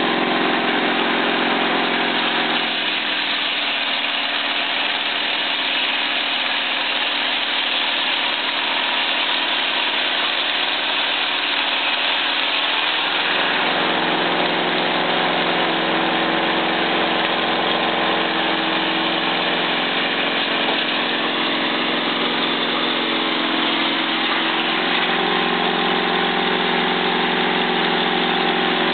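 Circular sawmill with an inserted-tooth blade, driven by a Volkswagen 1600 air-cooled flat-four engine, running steadily while it saws cedar boards. The engine note shifts about three seconds in and again around thirteen seconds.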